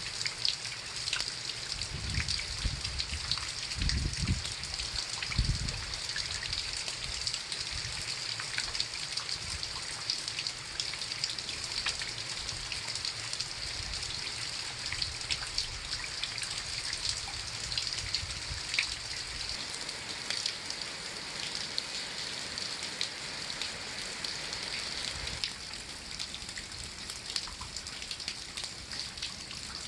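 Steady rain falling, with many separate drops tapping close by. A few low rumbles come through in the first few seconds.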